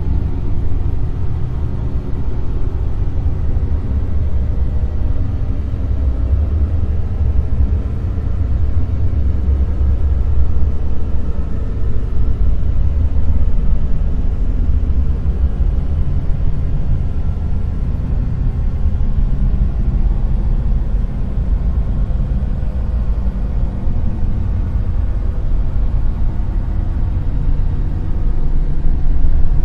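Dark noise: a steady, deep rumbling hiss with most of its weight in the bass, its loudness gently rising and falling.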